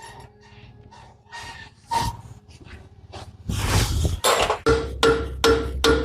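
Light scattered knocks, a short scraping burst, then steady hammer blows on steel, about two and a half a second, each one ringing.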